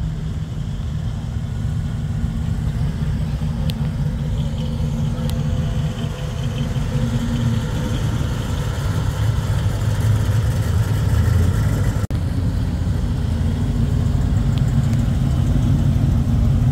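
Classic muscle cars' engines running at low speed as the cars pull past one after another, a deep steady engine note that grows louder. The sound cuts out briefly about twelve seconds in.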